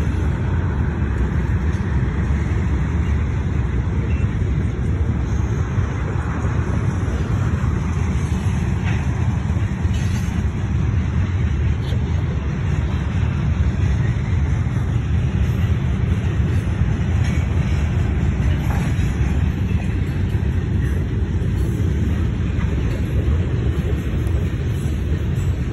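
Freight train rolling past: a steady rumble of wheels on rail, with a few faint clicks.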